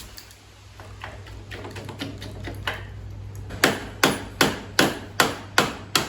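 A hammer striking repeatedly, with a few light taps and then, from about three and a half seconds in, a steady run of sharp blows, roughly two or three a second.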